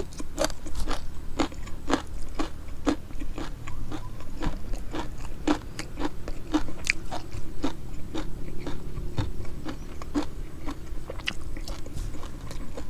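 A person chewing and biting food close to the microphone: a steady run of crunchy, wet chewing clicks, a couple each second.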